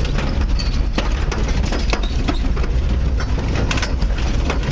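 Off-road race truck heard from inside the cab: the engine runs with a steady low rumble while sharp knocks, cracks and rattles come again and again as the truck crawls over rough ground.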